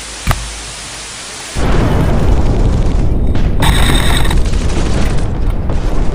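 A single sharp click, then a loud, rough low rumble that starts suddenly about a second and a half in and keeps going.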